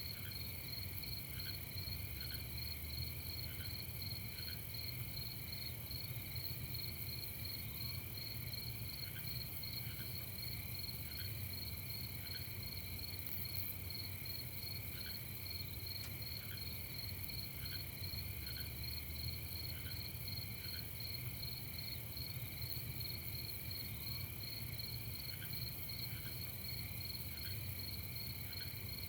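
A night chorus of crickets chirping steadily in fast, pulsing trills at two or more pitches. Faint short chirps come in pairs every few seconds, over a low steady hum.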